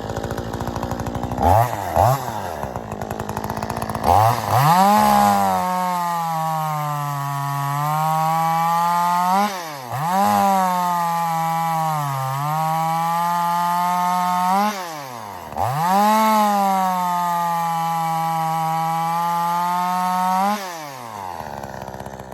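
Hitachi 50cc two-stroke chainsaw fitted with a .325 pitch race chain. It idles, gets two quick blips of the throttle, then is held at full throttle through three cuts in wood. In each cut the engine note sags under load, and it flares up briefly between cuts before dropping back to idle near the end. The owner calls the saw much underpowered.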